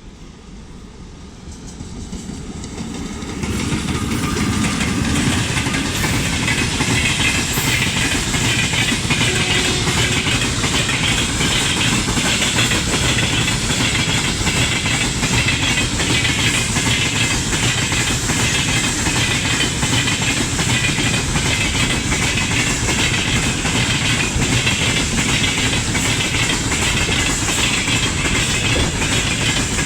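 Freight train hauled by a 2ES6 electric locomotive rolling past, growing loud about three and a half seconds in and then running steadily, with a continuous clickety-clack of wagon wheels over rail joints.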